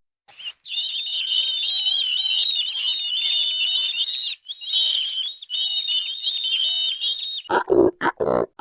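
An animal's high-pitched, wavering squealing or chirping that runs for about seven seconds, with a brief break near the middle. Near the end a fast run of short, lower calls begins.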